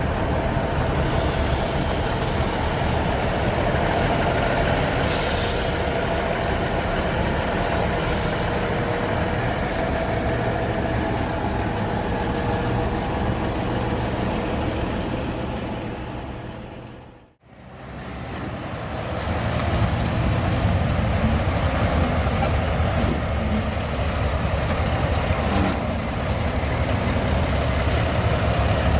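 Diesel truck engines running, with three short bursts of air hiss in the first ten seconds, like air brakes being released. The sound fades out briefly past the middle and comes back with the engines running.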